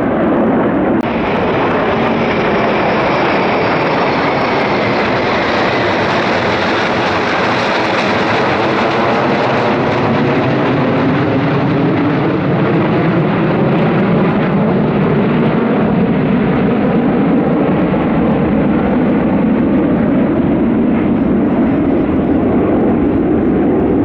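Military aircraft flying over, with loud, steady engine noise that slowly sweeps in pitch as they pass.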